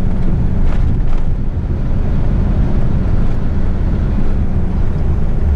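Eight-wheeler twin-steer heavy rigid truck driving on the road, heard from inside the cab: a steady low drone of diesel engine and road noise.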